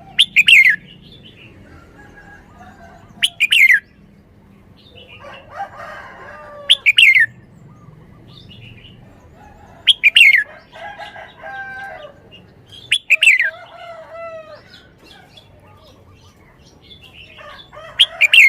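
Red-whiskered bulbul singing: six short, loud phrases about three seconds apart, each with a sharp start and falling notes, with softer warbling between them.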